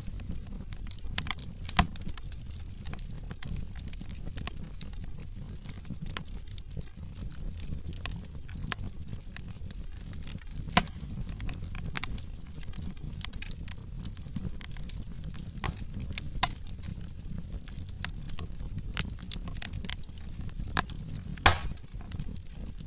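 Wood fire crackling steadily over a low rumble of burning logs, with frequent sharp pops and snaps; the loudest pops come a little under 2 seconds in, about 11 seconds in and near the end.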